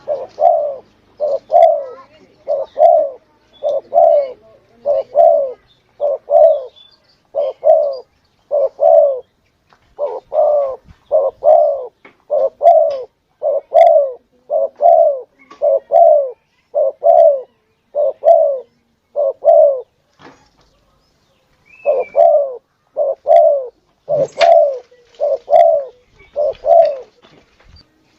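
Spotted dove (tekukur) cooing over and over in a long, steady run of short, low, pitched coos, with a short break about two-thirds of the way through. It is a lure call of the kind used to draw in wild doves.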